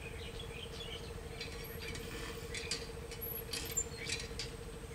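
Small birds chirping and squeaking in short, irregular calls, over the low, steady rumble of a diesel locomotive approaching in the distance.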